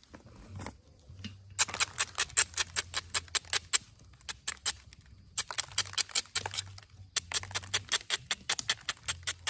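Rapid sharp clicks of stone on stone, about ten a second, in several runs of one to two seconds with short pauses between, as the edge of an Onondaga chert point is worked.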